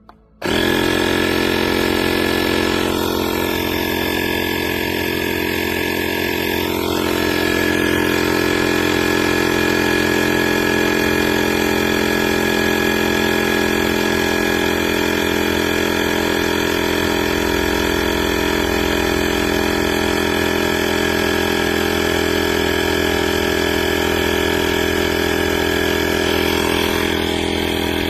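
Inzeetor ITI-001 12V portable tire inflator's small piston compressor switching on about half a second in and running steadily with a loud, even buzzing hum.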